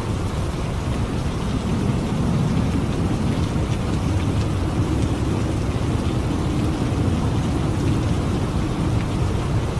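Thunderstorm: rain falling steadily, with a low rumble of thunder underneath that swells slightly about two seconds in.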